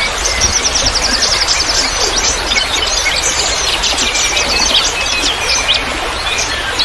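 Many small songbirds chirping and twittering densely together, rapid high calls overlapping without pause, over a steady trickling-water hiss.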